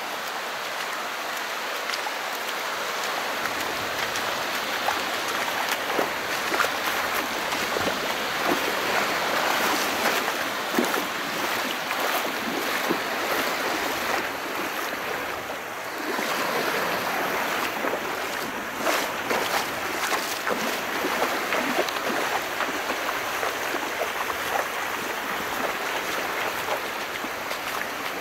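Calm sea: small waves washing and fizzing with scattered little splashes, swelling around the middle, easing briefly, then building again.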